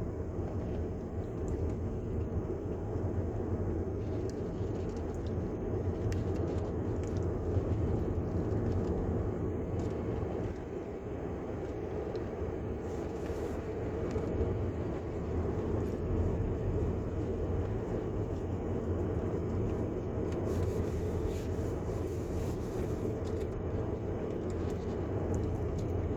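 Steady low rumble of a moving car heard from inside the cabin: tyre and road noise with engine drone, even throughout.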